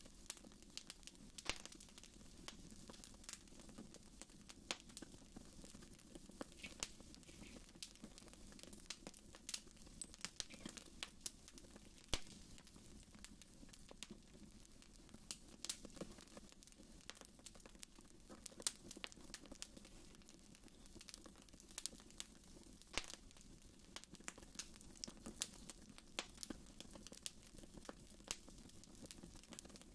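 Wood fire in a fireplace crackling: irregular sharp pops and snaps over a faint, steady low hiss of the flames.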